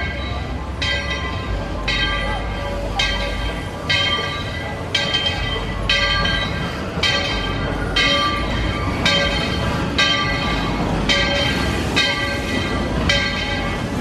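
Steam locomotive bell ringing steadily, about one stroke a second, over the low rumble of the train.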